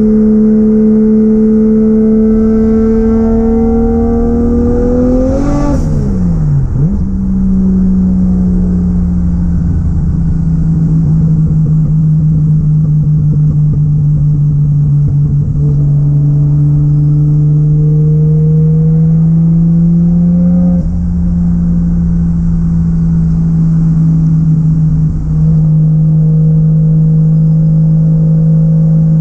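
Single-turbo Toyota 1JZ-GTE VVTi straight-six pulling hard, its pitch rising for about six seconds. A sharp hiss from the blow-off valve comes with the shift, and the revs drop. It then pulls steadily at lower revs, rising and easing off slowly, with another brief shift about twenty seconds in.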